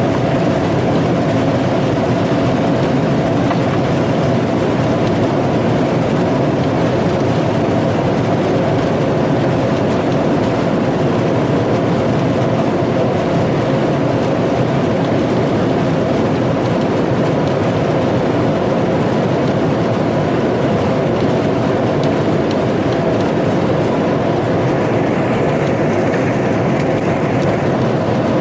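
Steady cabin noise inside an Airbus A321 airliner: a continuous drone of engines and airflow with a few faint steady tones.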